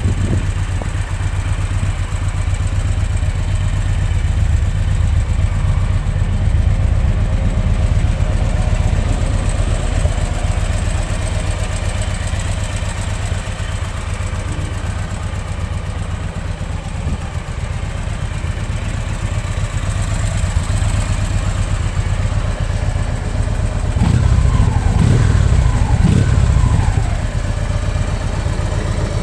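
Victory Cross Country Tour's 106 cubic-inch V-twin engine idling steadily, with the throttle blipped to rev it up a few times near the end before it settles back to idle.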